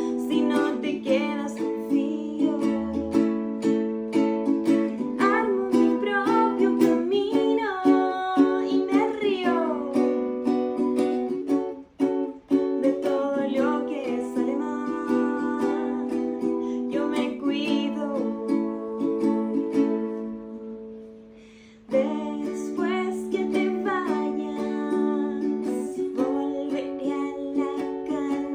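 A woman singing a slow song to a strummed acoustic string accompaniment. About twenty seconds in, the playing dies away briefly, then the strumming starts again.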